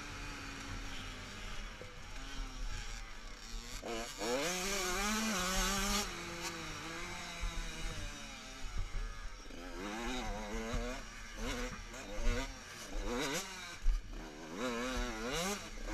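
Motocross bike engines revving up and down repeatedly as the bikes ride the track, with a strong rising rev about four seconds in.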